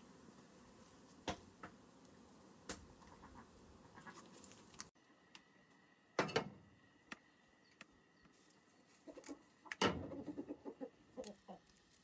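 Domestic chickens clucking at intervals, among a few sharp clicks or knocks.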